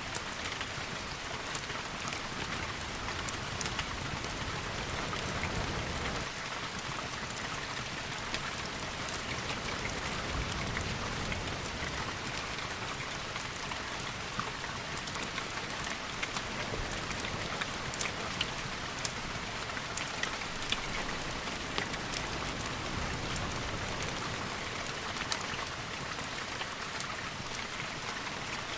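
Steady, continuous rain with scattered sharp ticks, as part of a mixed storm ambience, and now and then a low rumbling swell underneath.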